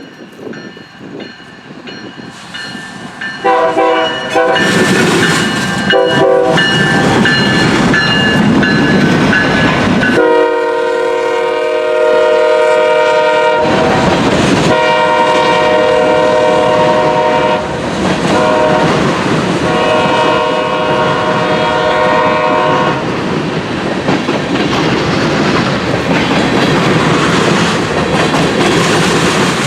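Freight train diesel locomotive horn sounding a chord, first with two short toots and then the long, long, short, long grade-crossing signal, over the steady rumble and clatter of the passing train. After the horn stops, the wheels keep clicking over the rail joints.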